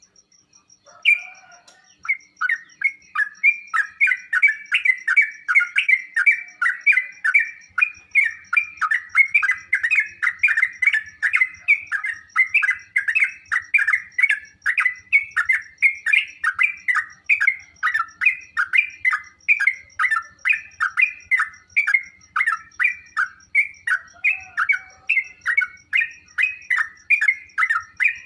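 Yellow-vented bulbul (trucukan) singing a rapid, chattering song of short bubbly phrases, repeated about two a second, starting about a second in.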